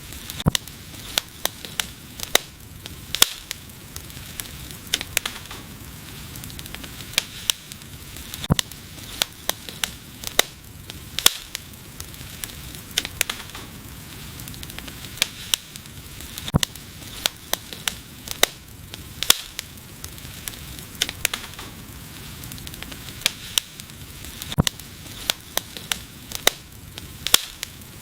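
Wood fire burning, with a steady low hiss and sharp, irregular crackles and pops several times a second.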